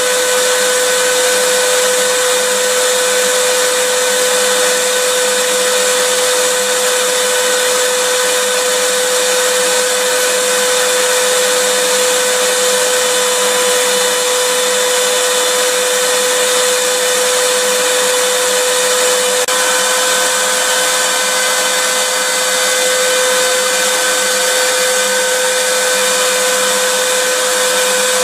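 Electric vacuum cleaner running steadily, a loud even whoosh of air with a motor whine held at one pitch.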